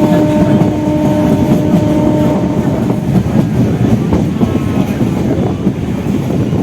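Suburban electric local train heard from on board while running at speed: a loud, dense rumble with the clatter of wheels over the rails. A steady tone with overtones sounds over the rumble and stops about two seconds in.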